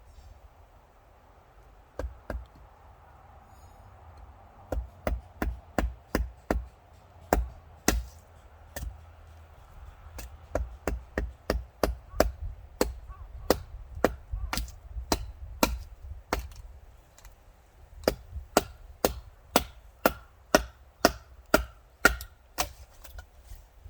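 Repeated chopping blows on wood, in runs of quick sharp strokes about two to three a second with short pauses between the runs.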